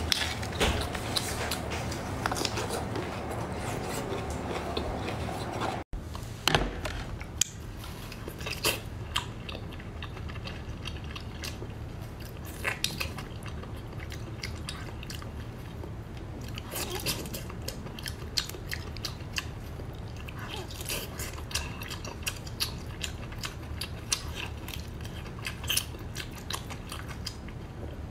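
Close-miked eating: biting and chewing with many short, sharp mouth clicks. The first few seconds come from grilled bamboo shoots. After a brief dropout about six seconds in, the sounds come from a whole cooked octopus being bitten and chewed.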